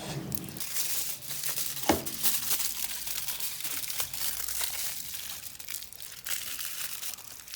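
Aluminium foil crinkling as it is folded and squeezed tight around food, with a sharp click about two seconds in.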